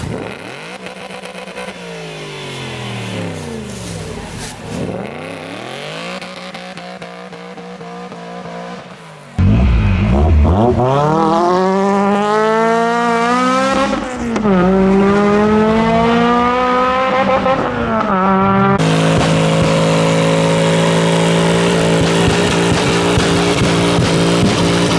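Sports car engines revving as the cars pass close by. About nine seconds in, a much louder engine accelerates hard, its pitch climbing through a gear change, then holds a steady high note.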